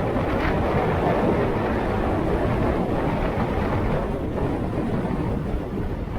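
Wind buffeting the microphone of a motorcycle on the move, a loud, steady rush over the motorcycle's running and road noise.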